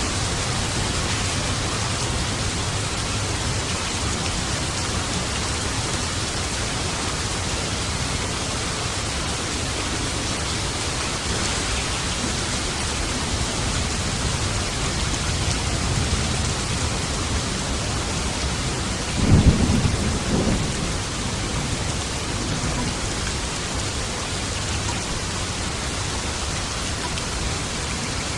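Steady heavy rain, with a thunderclap about two-thirds of the way through: a sudden low crack and rumble lasting a second or two, louder than the rain.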